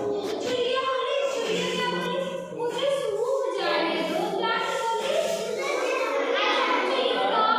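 A group of young children singing together in unison, a sing-song chant of held, melodic syllables.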